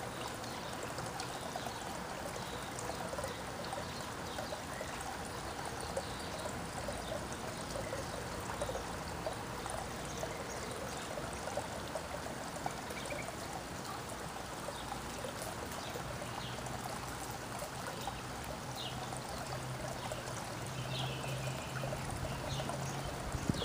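Steady trickle of running water, like a small garden fountain or stream, with a few faint bird chirps in the second half. A low steady hum comes in about two-thirds of the way through.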